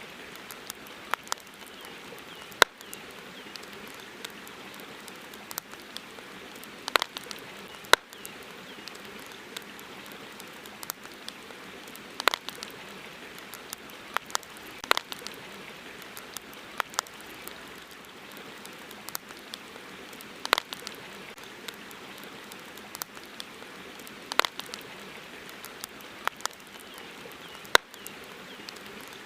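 Wood campfire crackling, with irregular sharp pops and snaps every second or so over a steady hiss, a few pops much louder than the rest.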